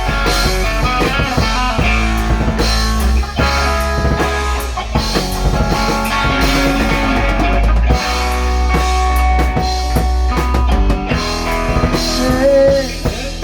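Instrumental rock music: electric guitar with bending notes over bass and a drum kit keeping a steady beat.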